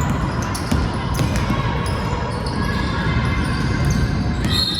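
Basketball game in a gym: a ball bouncing on the court over steady crowd and court noise, with scattered short knocks. A high, steady tone starts near the end.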